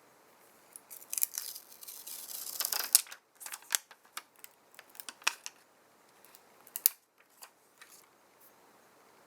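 Close-up handling noise from small hand tools and parts on an iPhone 7 being worked on for a battery replacement: a stretch of scraping about a second in, then a series of sharp little clicks and taps.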